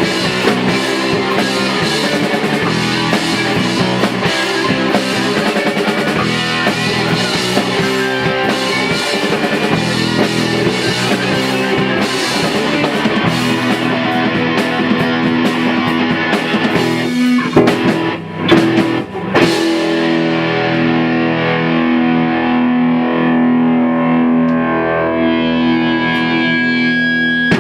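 Rock band playing with distorted electric guitar and drum kit. About two-thirds in, a few sharp hits end the beat and a distorted chord is left ringing out.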